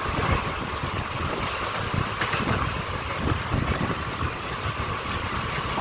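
Rumble and rapid clatter of passenger train wheels on rails as two trains run past each other on adjacent tracks, heard from the open window of a moving coach, with wind buffeting the microphone.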